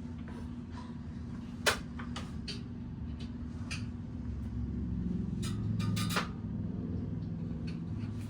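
Scattered clicks and knocks of hand tools and small metal objects being picked up and set down, one sharper knock about two seconds in and a quick cluster of knocks past the middle, over a steady low hum.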